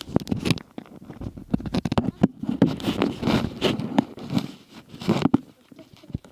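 Close handling noise of slime-making materials and containers: a dense run of scraping, clicking and crinkling, thinning out near the end.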